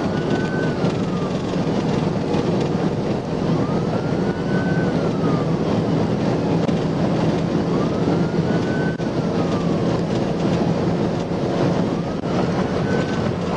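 Police car siren on a slow wail, rising and falling about every four seconds, heard faintly under loud, steady road, wind and engine noise from the patrol car driving at over 100 mph in pursuit.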